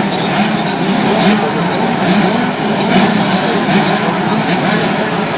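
Small 65cc and 85cc two-stroke motocross bikes racing, their engines running hard with the engine note rising and falling.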